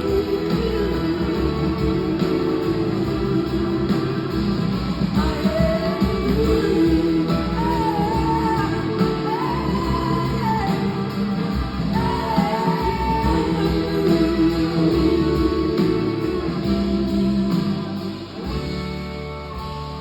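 Live rock band performance with singing and guitar over bass and drums, heard in a large hall; the music eases off near the end.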